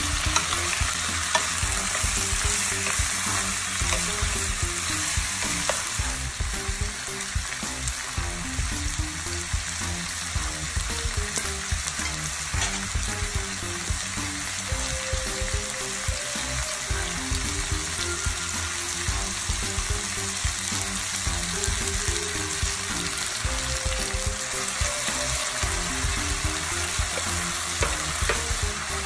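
Chicken wings, bitter melon and red bell pepper strips sizzling steadily in a hot frying pan, with a wooden spatula stirring them at times.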